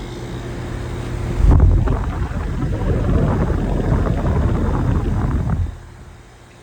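Goodman heat pump outdoor unit running with a steady hum. About one and a half seconds in, a loud rush of moving air buffets the microphone, typical of the condenser fan's discharge blowing across it, and it cuts off suddenly near the end.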